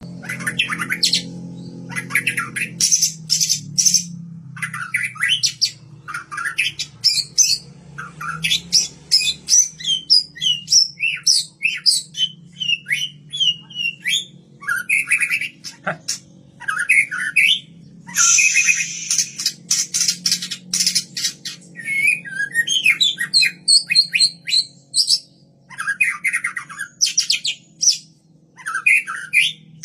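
White-rumped shama (murai batu, Kaur strain) singing a long, varied song: runs of quick rising and falling whistled notes mixed with harsh rasping bursts, with short pauses between phrases.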